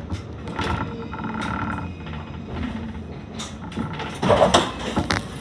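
C Class tram running on its rails, heard from inside the car, with rattles and knocks from the body and running gear and a brief high squeal about a second in. A louder burst of rattling comes about four and a half seconds in.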